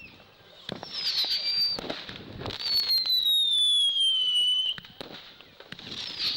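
Fireworks going off: high-pitched whistles, one held for about two seconds while slowly falling in pitch, mixed with sharp crackles and pops.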